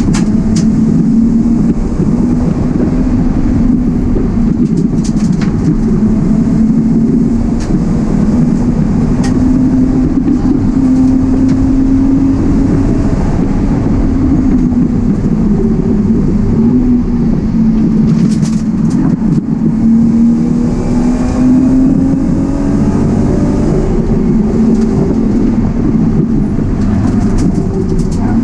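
E36 BMW 328i's straight-six engine running under load, heard from inside the stripped cabin. It is a loud, steady drone whose pitch rises and falls gently with the revs, with a few light ticks.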